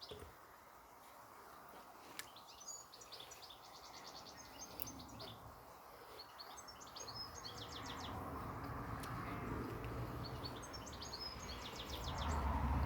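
Small birds chirping and trilling in repeated short phrases. From about halfway in, a knife blade is shaving a piece of wood, with a rising scraping that is loudest near the end.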